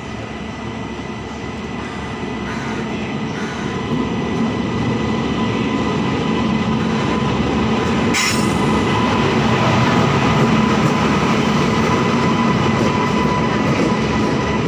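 Passenger train hauled by a WAP-7 electric locomotive rolling into a station: a steady rumble of wheels on rails that grows gradually louder, with a thin steady whine over it and a short hiss about eight seconds in.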